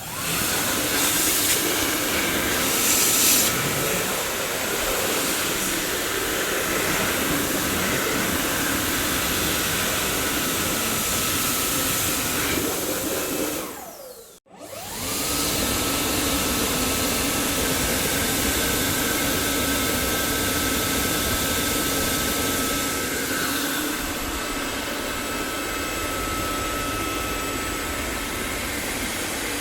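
Dyson vacuum cleaner motor running with a steady rushing airflow and a high whine. It switches on suddenly at the start. About halfway it winds down with a falling whine, cuts out for a moment, then starts again with the whine rising back up and runs steadily.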